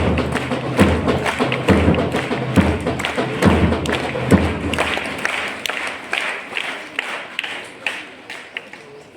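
An audience clapping in a round of applause, with a low thump about once a second through the first half. The applause dies away gradually over the last few seconds.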